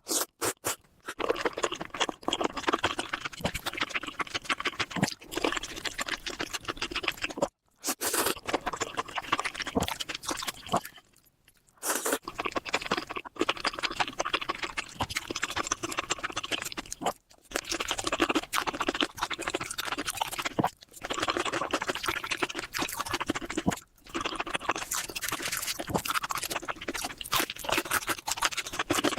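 Close-miked eating sounds: a person chewing and smacking wet mouthfuls of curry and rice, with dense crackly clicks. The sound breaks off briefly four times where clips are spliced together.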